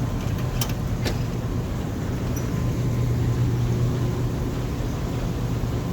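A steady low mechanical hum, like a running engine or machinery, with two brief clicks about half a second and a second in.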